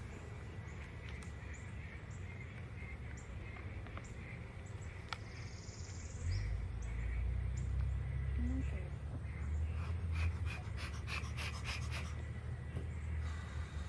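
Breathing close to the microphone over a low rumble, which grows louder about halfway through, with a quick run of small clicks near the end.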